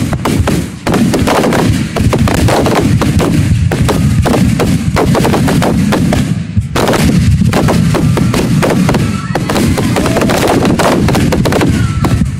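Fireworks display: aerial shells bursting in a rapid, near-continuous barrage of overlapping bangs, with a brief break about six and a half seconds in.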